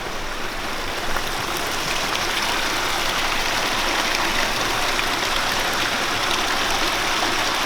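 Steady rushing of flowing water from a creek, growing a little louder over the first couple of seconds and then holding even.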